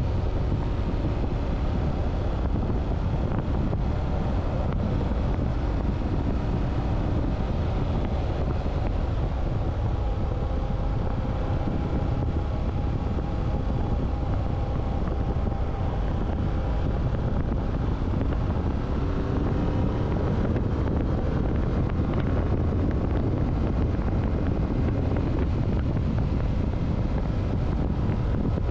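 Wind rushing over the microphone of a motorcycle under way, with the engine running underneath, its pitch shifting a few times.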